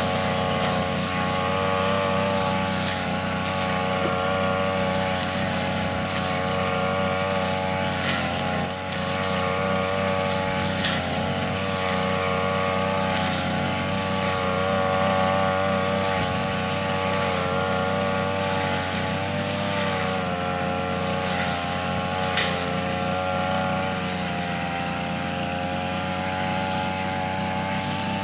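Tanaka brush cutter's small two-stroke engine running steadily at an even speed, its pitch wavering slightly now and then. There are a few short sharp clicks.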